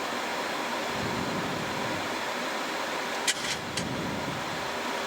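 Steady rushing flight-deck noise of a Boeing 737-700 in flight, airflow and engine noise heard in the cockpit, with three short, sharp clicks a little after three seconds in.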